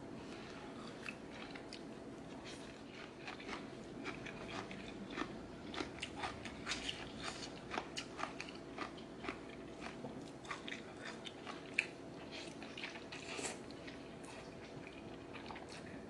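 Chewing close to the microphone: a run of small crunches and wet mouth clicks from eating rice noodles with cucumber salad, with one sharper click about twelve seconds in.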